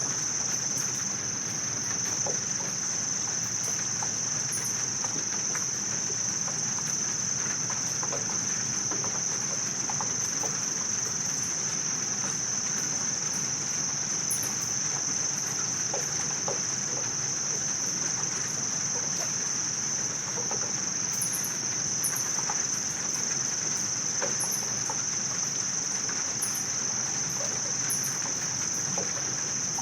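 Evening insect chorus: a steady, unbroken high-pitched trill, with faint short higher chirps now and then.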